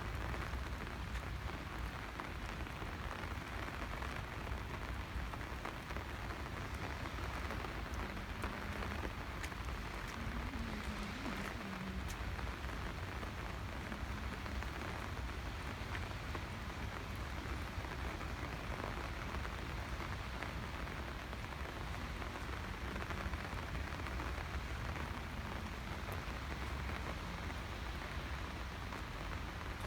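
Steady rain falling, with scattered sharp drop ticks over an even hiss and a low rumble underneath.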